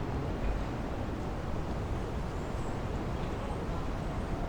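Steady outdoor town ambience: a low, even rumble with faint, indistinct voices in the background.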